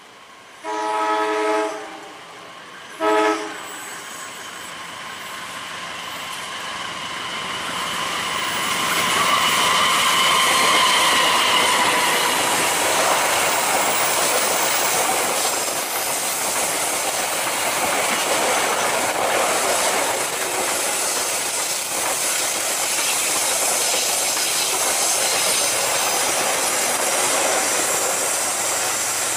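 Diesel locomotive horn sounding two chorded blasts, a long one about a second in and a short one about three seconds in, as a passenger train comes around a sharp curve. The train then passes close by: engine and wheel noise swell to their loudest about ten seconds in, with a brief high wheel squeal on the curve, then settle into a steady rumble of coach wheels rolling over the rail joints.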